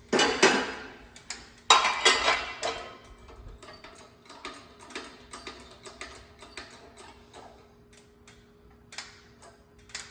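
Two loud metal clanks of 3/16-inch steel plate at a small bench press brake, each ringing briefly, the second about two seconds in, followed by a run of lighter metal clinks and ticks. A faint steady hum sits underneath.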